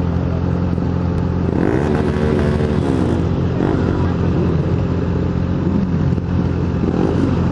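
Yamaha XJ6 N motorcycle's 600 cc inline-four engine running steadily at low parade speed, with a brief rev that rises and falls back about two seconds in.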